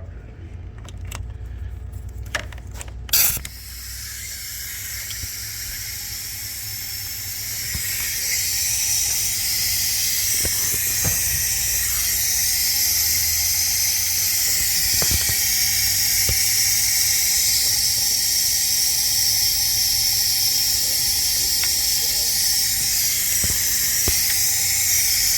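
Compressed air hissing out of leaks in a 6.0 Powerstroke's high-pressure oil system during a shop-air leak test, with the valve cover off. A sharp burst about three seconds in as the air goes in, then a steady hiss that builds over a few seconds and holds loud. It is a massive air leak that looks to be coming from the injector area.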